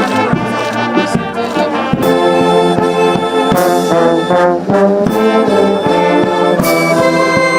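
Brass band music: trombones and trumpets playing held chords that change every second or so, with scattered percussive hits.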